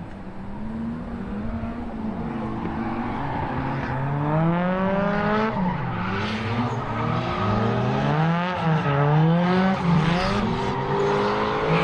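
Go-kart engine revving up and down as the kart accelerates and slows through corners, its pitch rising and falling several times and getting louder over the first few seconds.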